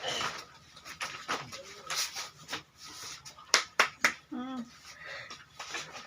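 Indistinct, scattered voices in a room, with a few sharp clicks about three and a half to four seconds in.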